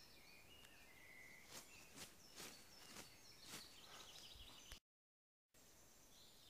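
Faint woodland birdsong, short chirping calls, with several soft clicks in the middle. The sound drops out completely for a moment near the end, at a cut.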